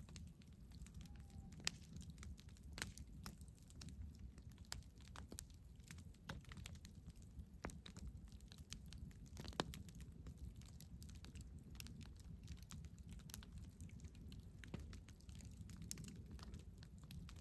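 Campfire burning with faint, irregular crackles and pops over a low steady rumble; the sharpest pops come about two seconds and ten seconds in.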